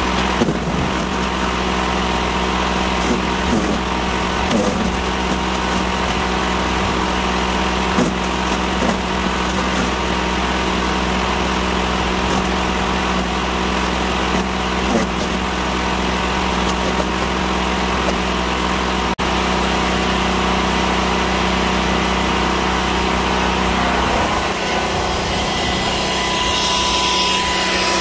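Sun Joe CJ601E 14-amp electric wood chipper running steadily, with sharp cracks and snaps now and then as branches are fed in and shredded, over the steady running of the portable generator powering it. The steady sound shifts near the end.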